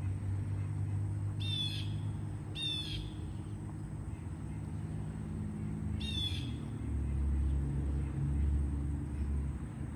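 A bird gives three short chattering calls, each a quick run of high repeated notes, over a steady low rumble that grows louder about two-thirds of the way in.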